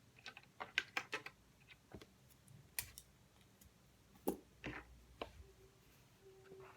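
Faint typing on a keyboard: a quick run of key clicks in the first second or so, then single taps about once a second.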